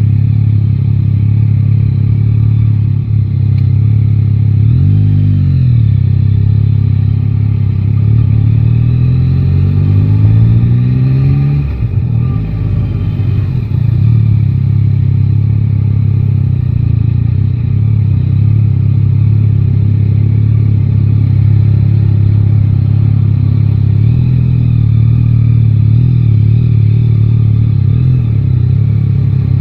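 Yamaha Tracer 9 GT's three-cylinder engine out on the road. It revs up and back briefly about five seconds in, then pulls with rising pitch for several seconds until a sharp drop at a gear change or roll-off, then runs steadily.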